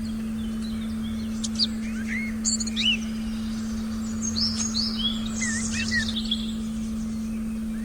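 Forest birds chirping and twittering in a quick run of short calls and sweeps through the middle of the clip, over a steady low sustained tone.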